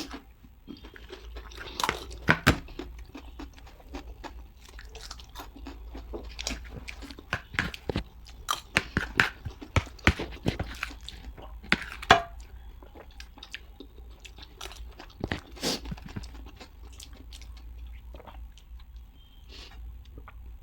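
Mouth chewing crunchy chatpate, a spiced puffed-rice snack, in many irregular crisp crunches and clicks. The loudest crunches come about two seconds in and again near twelve seconds.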